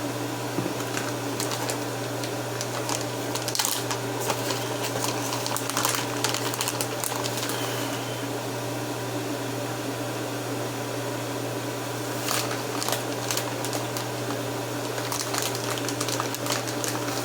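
Steady electric hum of a running kitchen appliance motor, with scattered light clicks and crackles over it.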